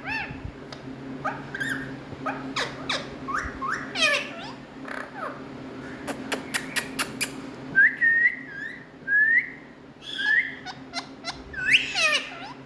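Indian ringneck parakeets calling: a string of harsh sweeping calls and whistled notes that swoop up and down, with a run of short rising whistles past the middle and a quick burst of sharp clicks just before it.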